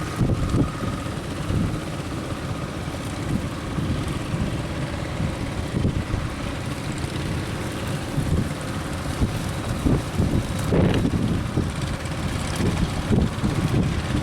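Strong sea wind buffeting the microphone in uneven gusts, with a boat engine running steadily underneath.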